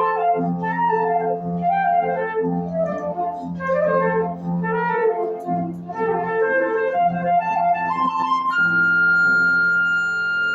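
Flute playing a slow lyrical melody over piano accompaniment. About eight and a half seconds in, the flute settles on one long held high note over a sustained piano chord, the closing cadence of the piece.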